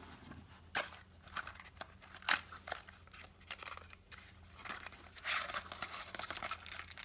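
Plastic packaging crinkling and rustling with scattered clicks and knocks as a bagged installation kit of small hardware is unpacked; a sharp click a little over two seconds in is the loudest sound, and a longer spell of crinkling comes about five seconds in.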